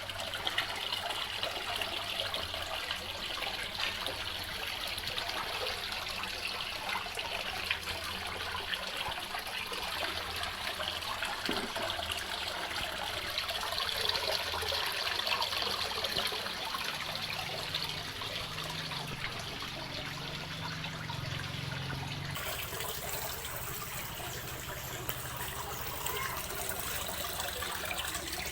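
Water running and trickling steadily in a fish pond being cleaned.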